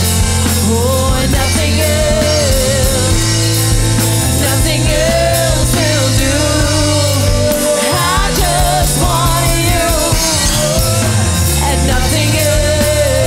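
Church worship band music in a rock style: drums, steady bass and a wavering lead melody line over sustained chords.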